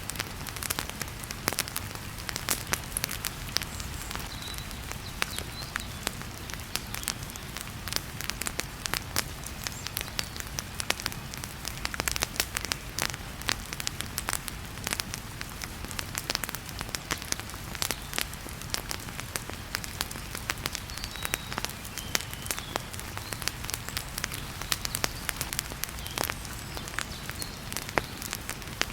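Wood fire crackling and popping in a fireplace, with many irregular sharp snaps, over a steady hiss of heavy rain.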